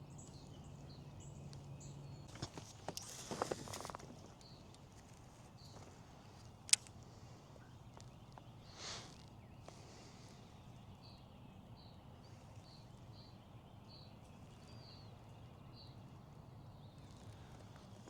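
Faint outdoor ambience on the water: a low steady hum at first, a brief rustle about three seconds in, one sharp click near the middle, and a series of short high chirps later on.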